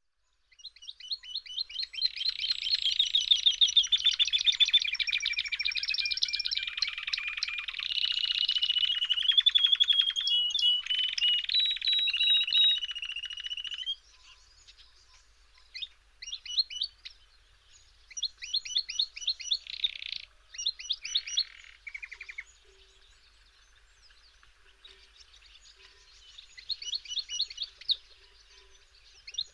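A small songbird singing long, rapid, rolling trills and warbles, loud and continuous for the first half, then in shorter phrases with pauses.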